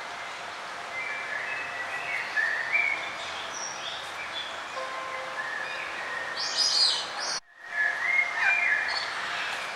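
Songbirds singing in short warbling phrases over a steady outdoor hiss, with a brighter, higher phrase about six and a half seconds in. The sound cuts out completely for a moment about seven and a half seconds in, then the song resumes.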